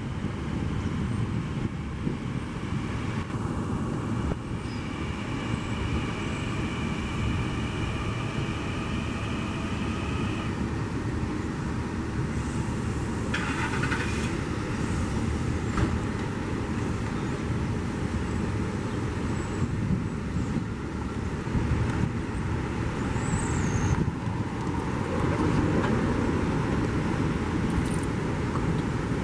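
Long Island Rail Road M9 electric train pulling out: a steady rumble of the train running, with a steady high whine during the first ten seconds or so.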